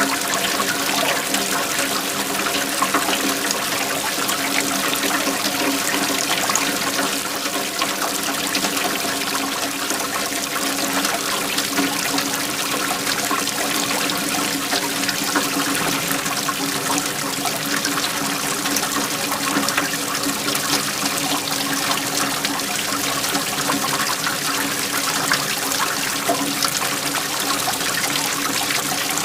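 Waterfall: a steady, unbroken rush of falling, splashing water.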